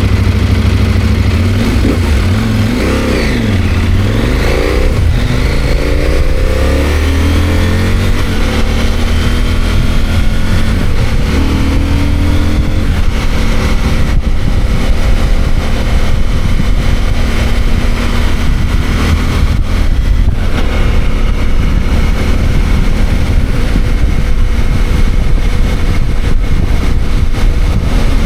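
CFMOTO 800MT's parallel-twin engine under way, revs climbing and dropping as it shifts up several times in the first dozen seconds, then holding steady at cruising speed.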